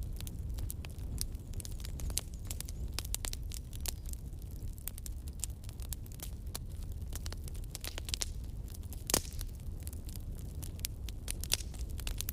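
Logs burning in a fireplace, crackling with frequent sharp pops of uneven strength over a steady low rumble of the flames. One louder pop comes about three-quarters of the way through.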